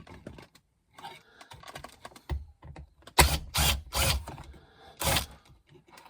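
Torx driver working the small T20 screws out of the roof console: light clicking, then four sharp knocks or clatters between about three and five seconds in.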